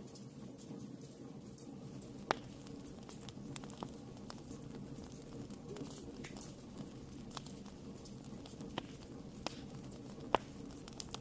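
Wood fire burning in a fireplace: a low steady rumble of flame with scattered sharp crackles and pops, two louder snaps about two seconds in and near the end.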